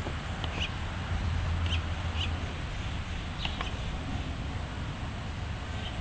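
Small songbirds giving short, high chirps, scattered several times over a few seconds, above a steady low rumble.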